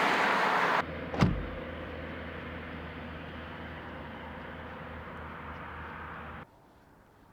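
A car door shuts with a single thud about a second in, followed by the steady low hum of a car engine running, which cuts off suddenly near the end.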